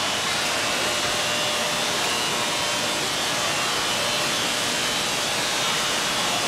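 Steady, even rushing noise that runs without a break.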